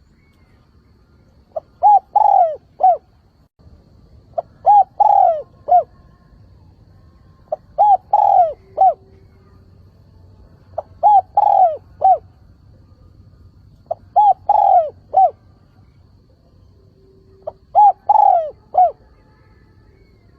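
Decoy spotted dove cooing: six repeated call phrases about three seconds apart, each a short coo, a longer falling coo and a short closing coo. This is the territorial call used to draw wild spotted doves in and stir them to answer.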